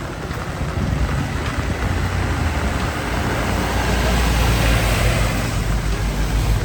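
Street traffic: a motor vehicle's engine runs close by with a steady low hum under a general hiss of road noise, growing louder about four to five seconds in.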